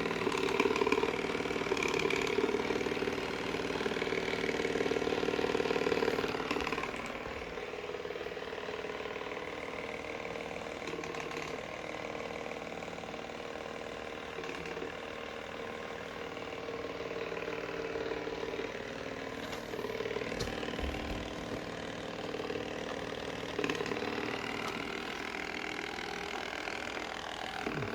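Robot vacuum cleaner running with a steady motor hum, louder for about the first six seconds and then a little quieter.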